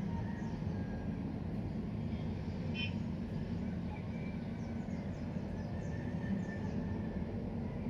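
Outdoor ambience: a steady low rumble like distant traffic, with birds chirping here and there over it.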